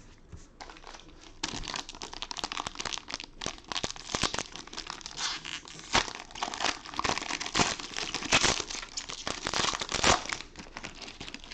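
Plastic wrapping of football trading-card packs crinkling and tearing as they are ripped open, starting about a second and a half in, with many sharp crackles.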